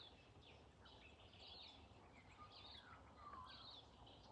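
Faint birdsong in a garden: a run of short high chirps repeating every half second or so, with a lower sliding whistle a little past the middle, over a faint low background rumble.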